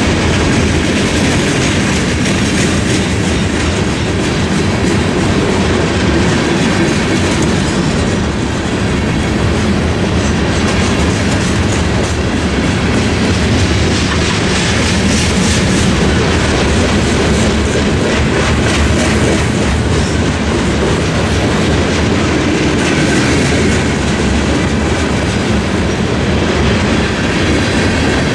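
Freight train of tank cars and covered hoppers rolling through a level crossing: steady rumble of the cars with steel wheels clicking over the rail joints and crossing.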